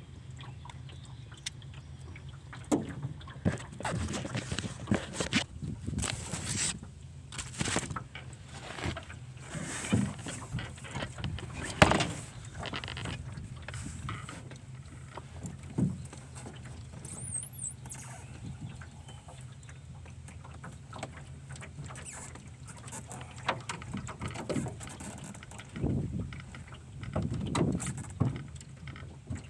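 Irregular knocks and clatter, in clusters through the first half and again near the end, over a steady low hum.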